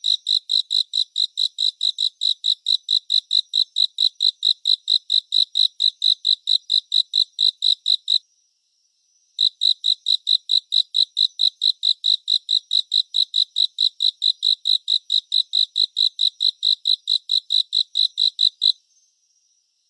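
A cricket chirping in a steady, even rhythm of about four high, pure-toned chirps a second. It breaks off for about a second near the middle, then resumes and stops about a second before the end.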